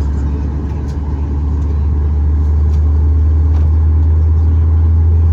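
Cabin noise of a Boeing 737 MAX 8 with its CFM LEAP-1B engines: a steady low drone that grows louder about two and a half seconds in, then holds.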